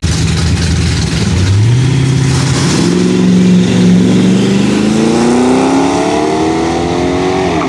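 Two drag-racing street cars, a Fox-body Ford Mustang and a red coupe, launching from the start line and accelerating hard down the strip. The engine note steps up at the launch, climbs steadily, then drops sharply near the end.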